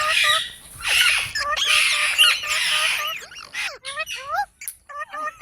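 Indian ringneck parrot squawking, with runs of short, quickly repeated chirps between longer squawks; the calls thin out to scattered chirps in the second half.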